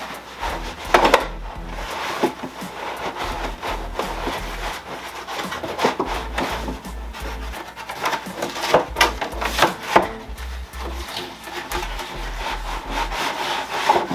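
Cardboard box and packaging being handled during an unboxing: rubbing and scraping, with scattered knocks and taps as pieces are pulled out and set down.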